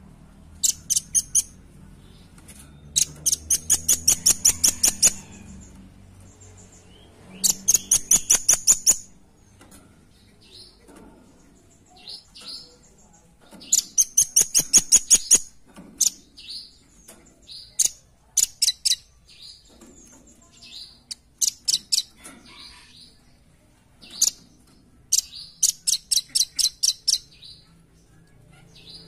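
Velvet-fronted nuthatch calling: rapid trills of sharp, high notes, each run lasting one to two seconds, repeated about seven times with scattered single notes in between.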